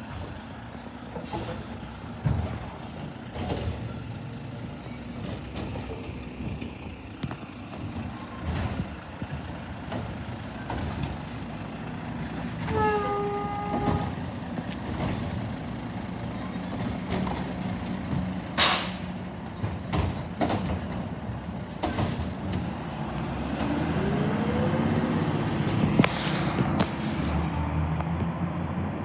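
Garbage truck's diesel engine running steadily. A brief pitched tone sounds about halfway through, a short sharp air-brake hiss comes about two-thirds of the way in, and the engine revs up near the end.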